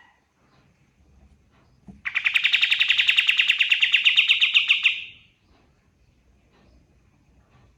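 Kapas tembak songbird singing one rapid trill of quickly repeated notes, lasting about three seconds and starting about two seconds in.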